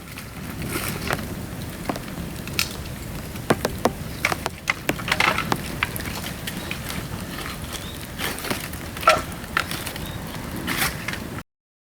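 Dry bamboo burning in a bonfire, giving sharp, irregular cracks and pops over a steady hiss of rain.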